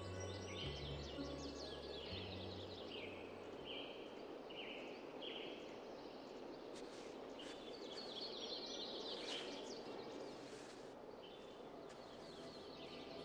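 Faint birdsong: short repeated bird chirps over a steady hiss, with low held music notes dying away in the first three seconds.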